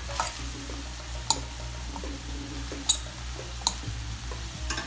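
Chicken pieces and garlic sizzling in a pot while a spatula stirs them, clinking sharply against the pot a few times.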